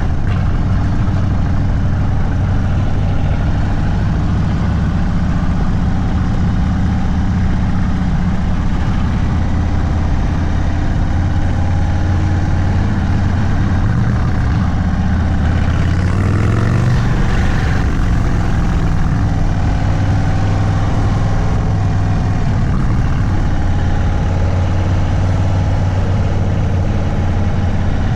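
Indian Sport Chief's Thunderstroke 116 V-twin, stage 2 tuned, running steadily at low revs through a Sawicki Speed aftermarket exhaust, with a short rise in engine speed a little past halfway that falls back again.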